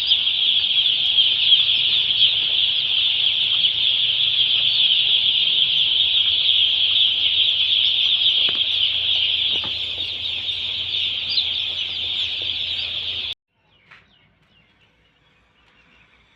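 Large flock of chickens calling together in a dense, steady, high-pitched chorus, with a low hum underneath. It cuts off abruptly about thirteen seconds in, leaving only faint scattered sounds.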